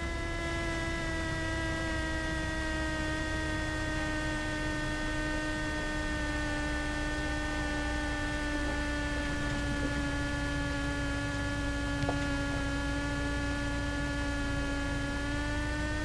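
Cessna 172's engine at reduced power, recorded through the intercom as a steady whine over a low rumble. The whine's pitch sags slightly as the power comes back on the approach.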